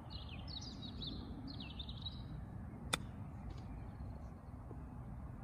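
A small bird chirping in quick, twittering phrases for the first two seconds or so, over a steady low outdoor background noise, with a single sharp click about three seconds in.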